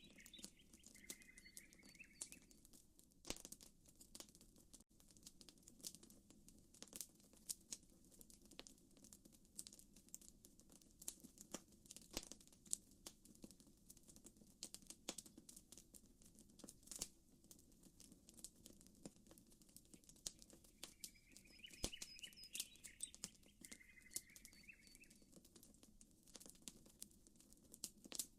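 Campfire burning with scattered sharp crackles and pops over a soft, steady low wash of gently lapping water. Short bird chirps come in near the start and again about 21 seconds in.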